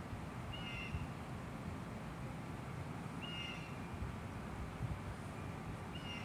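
A bird calling: a short high call repeated three times, about two and a half seconds apart, over a low steady rumble.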